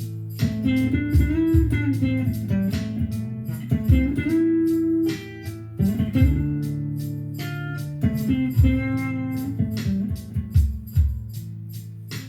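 Guitar playing a blues: plucked notes and bent notes over a repeating low bass-note pattern.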